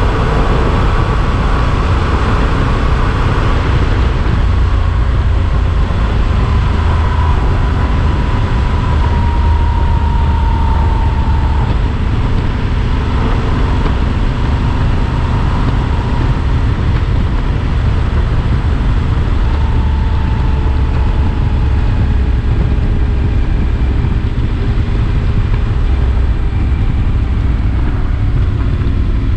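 Yamaha Super Ténéré XT1200 motorcycle's parallel-twin engine running at steady road speed, its drone drifting slowly in pitch, under heavy wind rush on the camera microphone.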